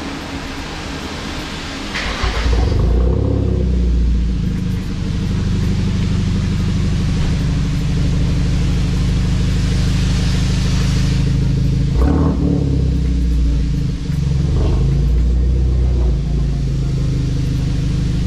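Hyundai Genesis Coupe 2.0T's turbocharged four-cylinder, nearly full bolt-ons, starting about two seconds in with a loud flare, then running with a strong, steady low drone. Later there are a couple of short revs as the car pulls away.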